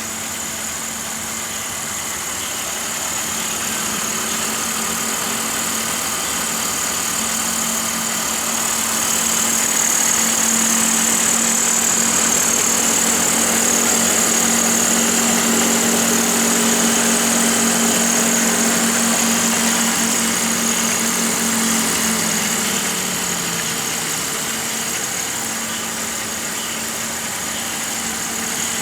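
BMW 530i's M54 3.0-litre straight-six engine idling steadily, with a steady hum; a tone in it slides down in pitch a little over three quarters of the way through.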